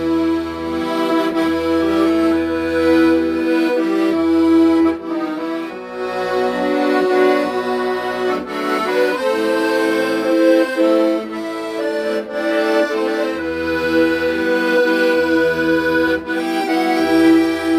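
Accordion playing a melody of an old Korean popular song, held reed notes over a low bass line that changes every second or so.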